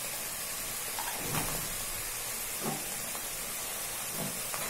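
Potatoes and masala sizzling steadily in a wok, with a few soft scrapes of a steel spatula about a second and a half apart.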